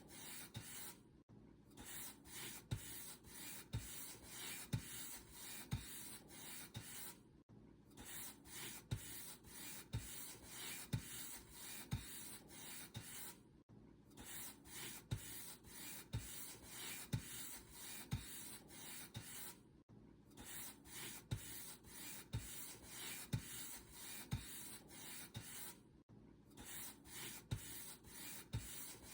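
Paint brush bristles stroking back and forth across a surface in a steady rhythm, with a soft low thump about once a second. A brief pause recurs about every six seconds.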